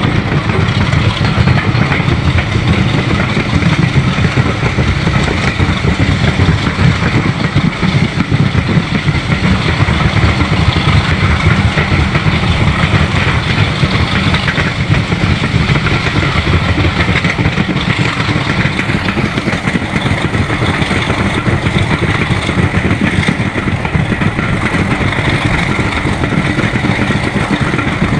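A diesel-hauled heritage train heard from inside a passenger coach while it runs: a steady, loud, deep rumble of wheels and running gear mixed with engine noise, unbroken throughout.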